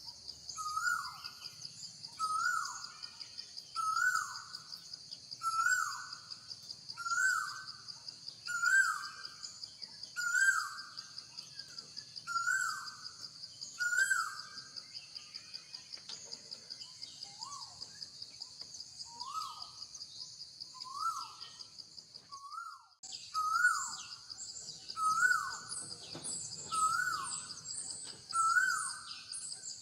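A bird calling over and over, a short swooping note roughly every second and a half, over a steady high pulsing buzz and faint higher chirps. Everything drops out briefly about two-thirds of the way through, then the calling resumes.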